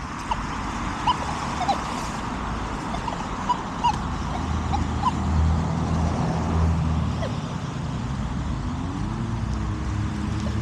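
Steady road traffic going by, with a few short faint chirps early on. Near the end one vehicle's engine rises in pitch as it accelerates.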